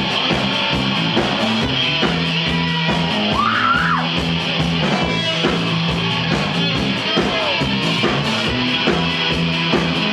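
Live rock band playing an instrumental passage between vocal lines: electric guitar over bass and drum kit, with a guitar phrase that slides up and back down a few seconds in.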